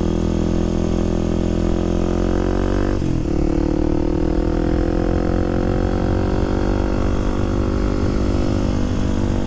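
Kawasaki KLX300SM's single-cylinder four-stroke engine running under steady throttle, its pitch rising slowly; about three seconds in a gear shift drops the pitch, and it climbs gently again.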